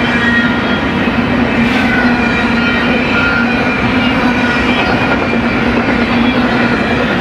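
BNSF freight train cars rolling past close by: a loud, steady rolling rumble on the rails with brief high-pitched wheel squeals.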